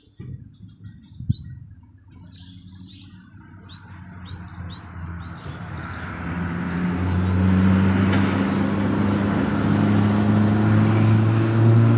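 A road vehicle's engine drone and tyre noise, growing louder over several seconds and staying loud near the end as it comes close. In the first couple of seconds, birds chirp and there is one sharp knock.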